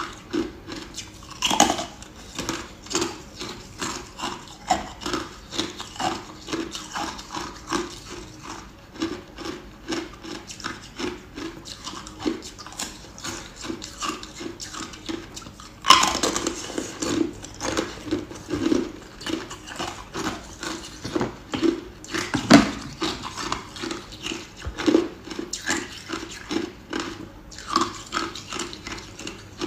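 Ice being bitten and chewed close to the microphone: a steady run of crunches, about two a second, with louder bites about a second and a half in, near the middle and again about two-thirds of the way through.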